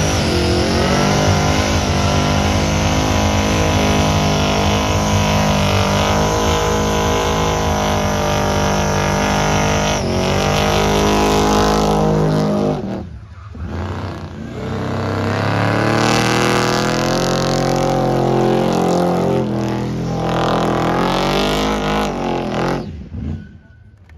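Supercharged 383 stroker small-block Chevrolet V8 with a 6-71 blower, running on E85, held at high revs during a smoky burnout. The revs drop sharply about halfway, then climb and hold again before the engine lets off near the end.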